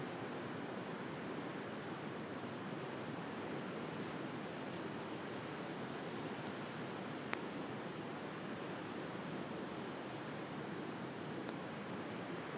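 Steady rush of sea surf with the occasional faint crackle of a wood fire, and one sharper pop about seven seconds in.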